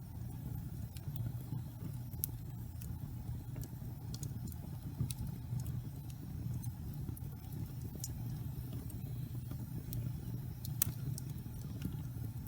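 Log fire in a fireplace burning with a steady low rumble, and sparse sharp crackles and pops from the wood, one louder pop near the end.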